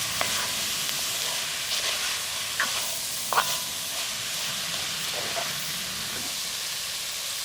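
Shrimp paella sizzling steadily in a hot pan, with two light clinks of a utensil on the pan about two and a half and three and a half seconds in.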